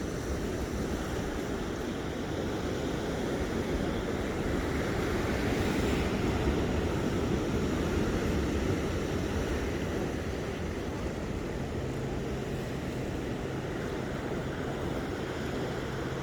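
Ocean surf washing in steadily, swelling to its loudest about five to nine seconds in and then easing off.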